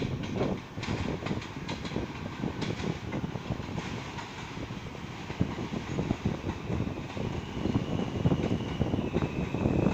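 R160A subway train on the A line rolling through the station, its wheels rumbling and clattering over the rail joints. Near the end a thin, high, steady whine or squeal comes in over the clatter.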